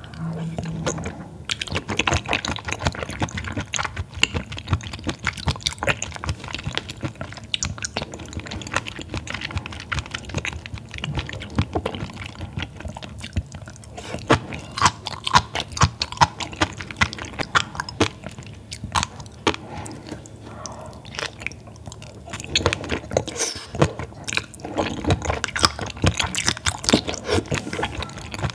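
Close-miked chewing of raw baby squid sashimi: a dense, irregular run of small sticky mouth clicks and smacks.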